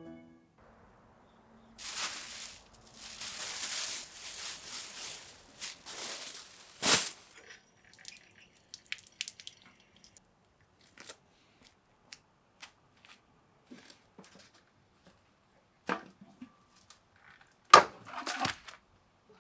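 Dry crinkling and rustling for several seconds, like something crisp being handled, torn or crumpled. A sharp knock follows, then scattered small clicks and taps, with a couple of louder knocks near the end.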